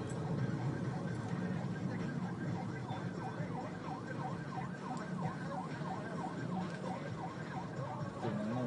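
Police car electronic siren on a fast yelp, sweeping down and up about three times a second, starting a couple of seconds in, over a steady low rumble of vehicle engines.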